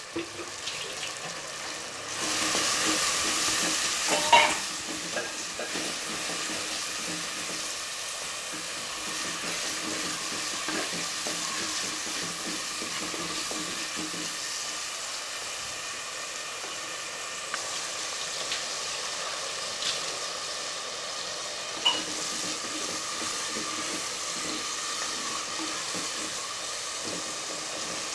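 Onions, tomatoes and curry leaves sizzling as they are sautéed in a clay pot and stirred with a wooden spatula. The hiss is louder for a couple of seconds near the start, with a few sharp knocks of the spatula against the pot.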